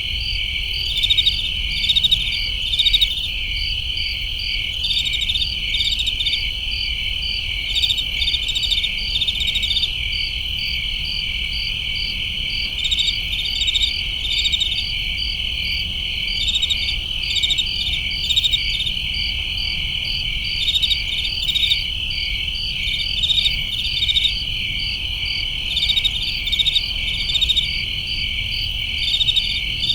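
A night chorus of crickets: a steady high trill with clusters of quick chirps repeating over it every second or two.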